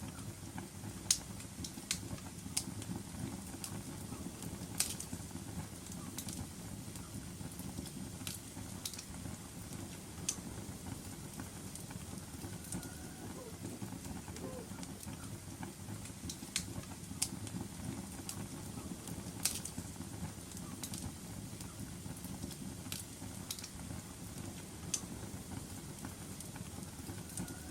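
Wood fire crackling in a fireplace: a steady low rumble of burning with irregular sharp pops and snaps, about a dozen scattered through, the loudest about five seconds in.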